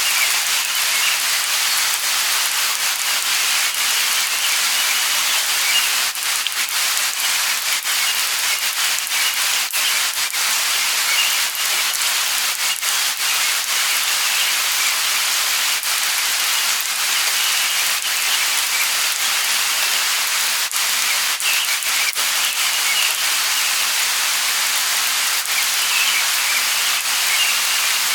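Light rain falling steadily, a constant patter of many small drops.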